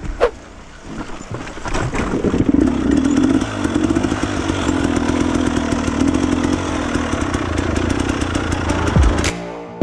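Dirt bike engine running hard under steady throttle, building up about two seconds in, with a rapid clatter of ticks over it; it cuts off shortly before the end.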